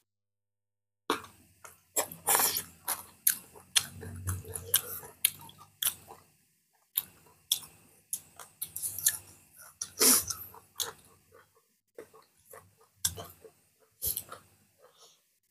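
Close-up eating sounds: wet chewing, lip-smacking and sharp mouth clicks as boiled pork and rice are eaten by hand, irregular and starting about a second in.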